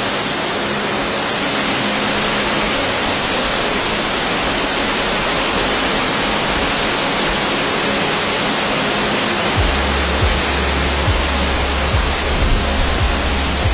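Waterfall's steady rush of falling water, with background music underneath; a deep low rumble comes in about ten seconds in.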